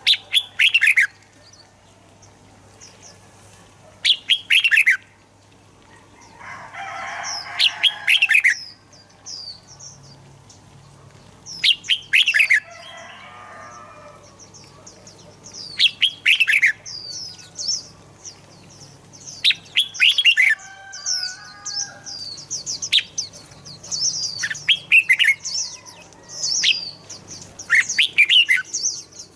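Red-whiskered bulbul singing: short loud phrases of quick falling notes repeated about every four seconds, with softer high chirping between them that becomes nearly continuous in the second half.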